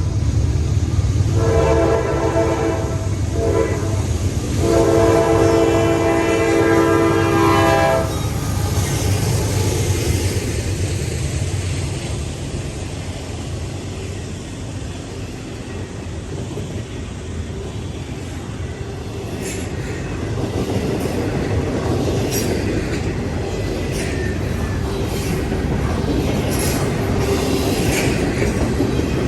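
Train horn sounding a long blast, a short one and a final long blast, the end of a grade-crossing signal, followed by the train rolling past with a steady rumble and wheels clicking over rail joints during the later part.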